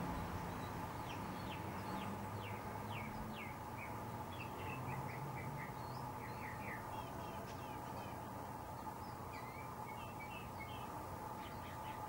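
Small birds chirping in quick runs of short high notes, with a pause around eight seconds in before they resume, over a steady low background hum.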